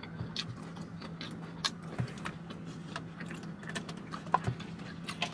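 Close-miked chewing and lip smacks while eating fries: a scattering of small irregular clicks and smacks, over a steady low hum.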